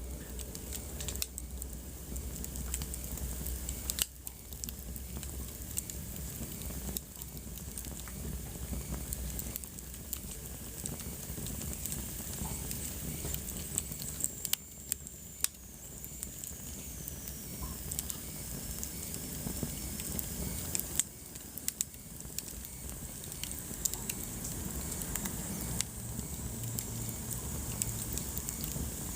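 Wood fire burning in a fireplace: a steady soft rush of flame with frequent sharp crackles and pops, a few of them louder. A faint high whistle falls in pitch around the middle.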